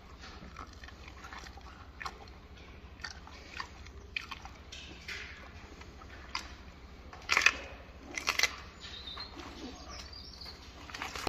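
Gorilla chewing and biting into food: irregular soft crunches, with a few louder bites about seven and eight seconds in.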